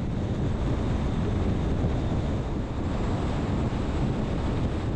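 Road and wind noise of a vehicle driving on the highway: a steady low rush that swells up at the start and holds.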